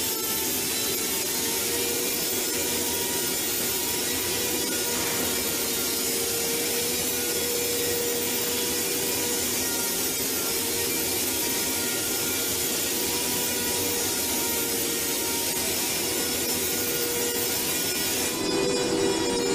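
Steady machinery noise with a constant hum-like tone, changing and getting slightly louder shortly before the end.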